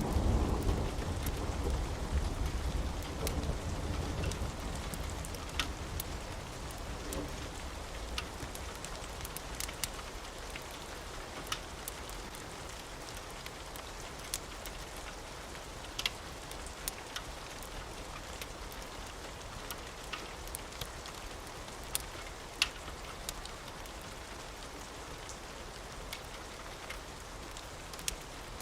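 Steady rain, with sharp crackling pops from a wood fire now and then. A low rumble under the rain in the first several seconds fades away.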